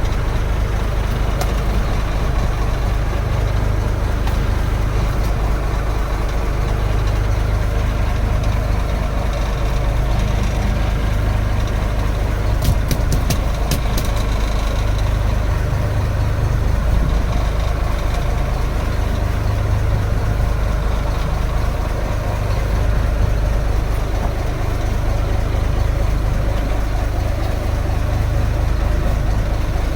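A fishing boat's engine running steadily at idle, a low continuous drone. A quick run of sharp clicks or knocks comes about halfway through.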